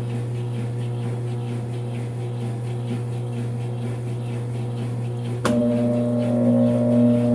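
Brastemp 5 kg washing machine humming steadily; about five and a half seconds in there is a click and the motor starts a louder, steady humming whine as the machine goes into its spin cycle.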